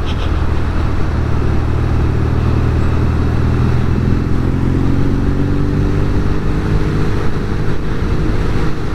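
Norton Commando 850 Mk2's parallel-twin engine running as the bike is ridden. From about four seconds in, its pitch climbs gently as the bike picks up speed.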